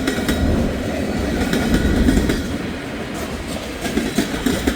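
Freight train rolling past close by, its wheels clacking over jointed rail amid a steady low rumble, with heavy wind buffeting the microphone.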